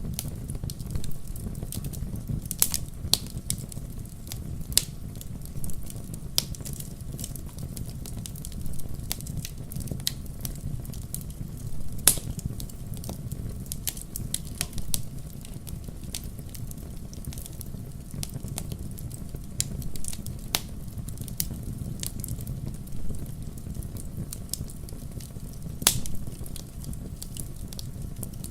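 Wood fire crackling in a fireplace: irregular sharp pops and snaps over a steady low rumble of flames, with a few louder pops, one about twelve seconds in and another near the end.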